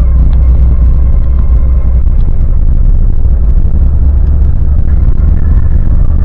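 Lada Niva Legend driving, a loud steady low rumble of engine and running gear.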